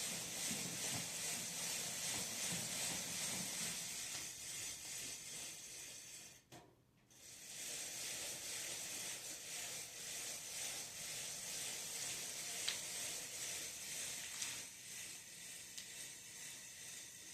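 Steady, fairly quiet hiss with a few light clicks. It drops out briefly about six and a half seconds in.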